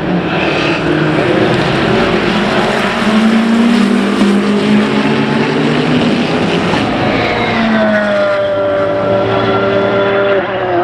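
Endurance racing cars at speed on the circuit, engines running loud and high. From about seven seconds in, the engine notes fall in pitch as a car passes or slows.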